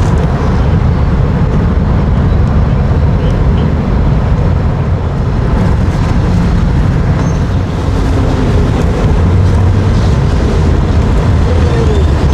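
Motorboat engines running, a steady low rumble.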